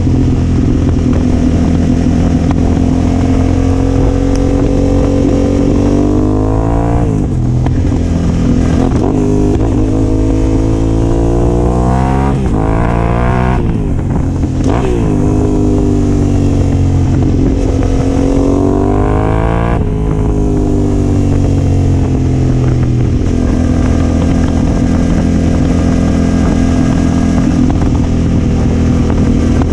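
Yamaha Ténéré 700's 689 cc parallel-twin engine through a Yoshimura R-12 exhaust, ridden under way. Its pitch climbs under acceleration and drops sharply at three gear changes, about a quarter, half and two-thirds of the way through, then it runs steadier near the end.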